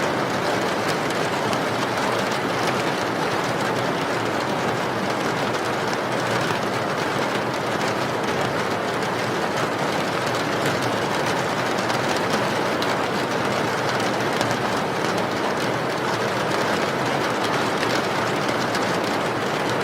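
Steady rain falling: a dense, even hiss that never lets up.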